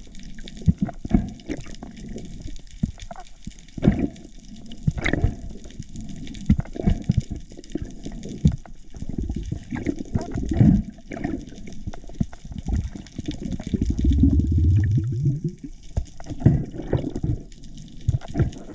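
Water sloshing and bubbling as heard through an underwater camera, with many irregular knocks and thuds. About fourteen seconds in there is a short low hum that rises in pitch.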